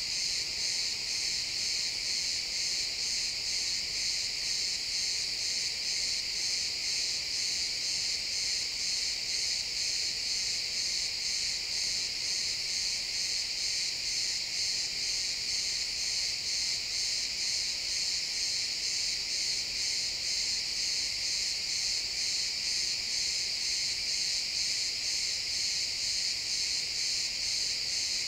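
A chorus of crickets chirping steadily, a dense high-pitched trill with a fine, even pulse.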